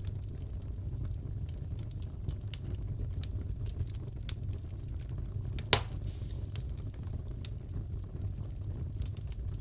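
Fireplace crackling: many small crackles over a steady low rumble, with one louder pop a little past halfway.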